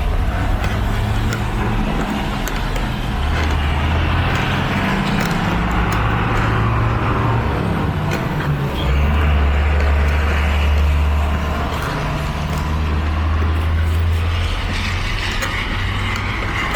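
Street traffic on a rainy city street: a heavy vehicle's engine running close by, its low hum changing pitch several times, over a steady hiss.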